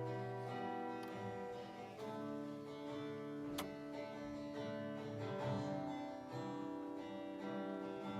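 Guitar playing slow, sustained chords that change every second or two, with a single sharp click about three and a half seconds in.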